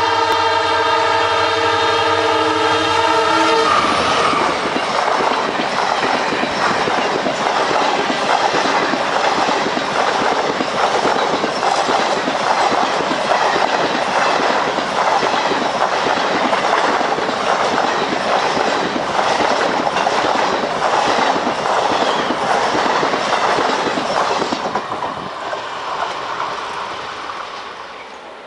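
WDP4 diesel locomotive's horn sounding one long steady blast for the first four seconds or so. The Saraighat Express then rushes past: a loud, dense rumble of the locomotive and coaches with the rapid clickety-clack of wheels over rail joints, which fades away over the last few seconds.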